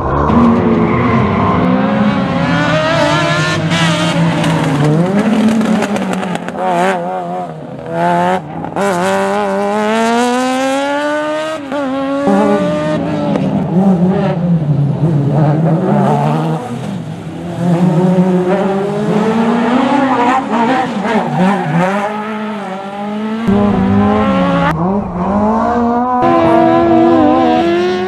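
Rally car engine at full throttle, its pitch climbing steeply and dropping sharply several times as it shifts gears and lifts off for corners.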